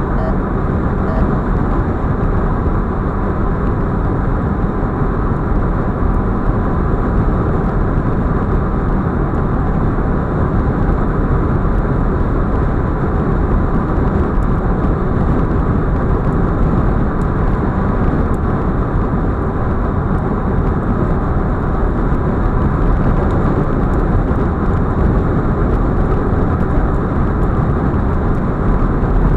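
Steady road and wind noise of an Audi A4 45 TFSI quattro cruising on a highway, an even rushing sound with no clear engine note.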